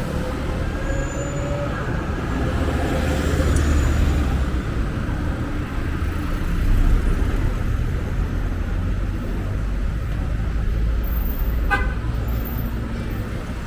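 Street traffic: the low rumble of passing cars, one engine rising in pitch early on, and a single short horn toot near the end.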